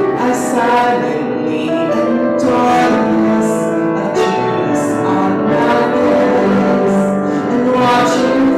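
Solo singing with piano accompaniment, a slow worship song.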